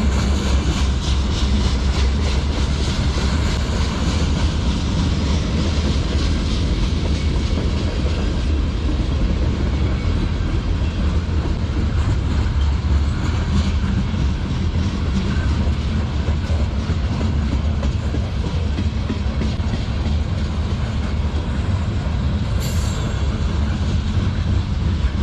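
Freight train cars rolling past at a steady speed: a continuous deep rumble with the rapid clicking of wheels over the rail joints.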